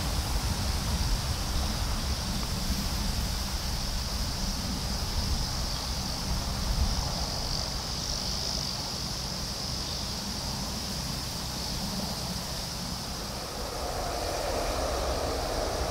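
Low rumble of a receding container freight train fading away under a steady high insect drone. About fourteen seconds in, a new rumble starts to build as another freight train approaches.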